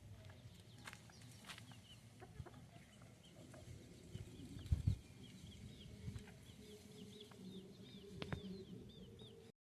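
Birdsong in a farmyard: a bird gives a long run of short, repeated high chirps, about three a second, over a low rumble. A louder thump comes about five seconds in.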